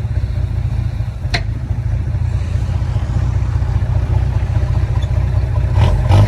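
A heavy diesel engine of earthmoving machinery runs steadily under load. There is a single sharp click about a second and a half in, and the engine gets louder near the end.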